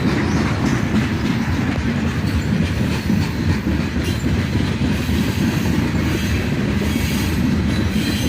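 Freight cars of a slow-moving train rolling past, steel wheels clacking over the rail joints with a steady rumble.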